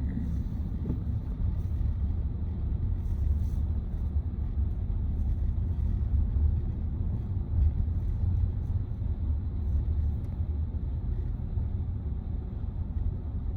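Steady low road and tyre rumble inside the cabin of a Tesla Model Y electric SUV driving along.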